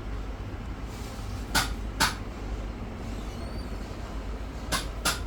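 Machinery running with a steady low hum, with four sharp clacks in two pairs, each pair about half a second apart.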